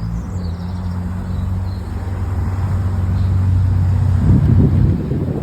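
A car engine running steadily nearby with a low, even hum, getting louder and rougher for a moment about four seconds in.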